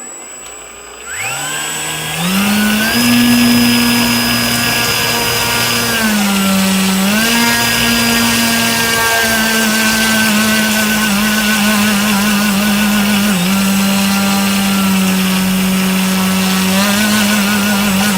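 Brushless electric motor spinning up with a rising whine, then running at a steady high speed, its pitch dipping once and then warbling rapidly up and down instead of holding steady. This wavering is the strange noise that the owner links to running the motor on a 25C battery.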